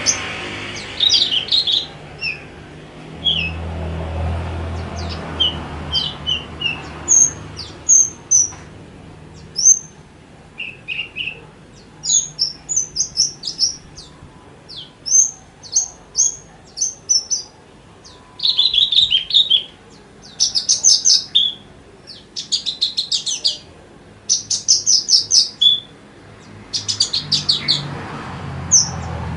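Javan bush lark (branjangan) singing: a lively run of short, high chirps and whistled notes, which in the second half turns into bursts of very fast, rattling trills.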